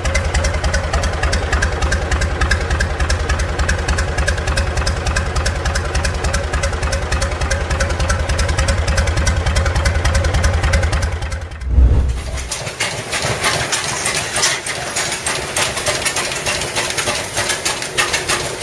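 Gardner 3LW three-cylinder diesel engine running with a fast, even beat and deep rumble. About twelve seconds in, the sound changes abruptly to an engine running with a lighter, clattering beat and little low rumble.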